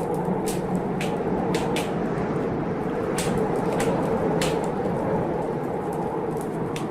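Wood fire crackling, with sharp pops at irregular intervals, over the steady low noise of blizzard wind.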